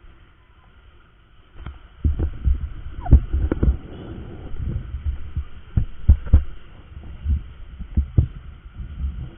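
Irregular, muffled low thumps and rumble buffeting the camera microphone on a moving motorcycle, starting about a second and a half in after a brief quiet stretch.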